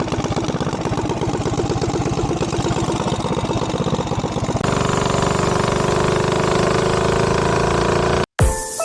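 Small mini bike engines running: first a rapid, even putter, then after a cut about halfway a steadier, higher engine note that stops abruptly near the end.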